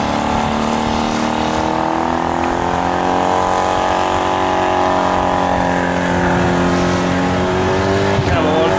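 Mercedes 380 SEL's V8 held at high revs during a burnout, the rear tyres spinning and squealing. The engine note sags and picks up again near the end.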